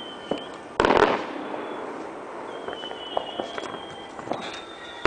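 Fireworks display: one loud bang about a second in, trailing off, then scattered smaller pops and crackles, with a thin, high, wavering whistle in the middle.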